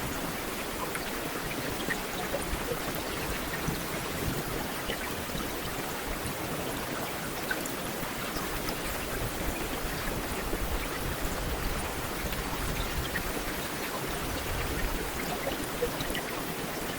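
Heavy rain falling steadily on pavement, a dense even hiss with scattered individual drop impacts.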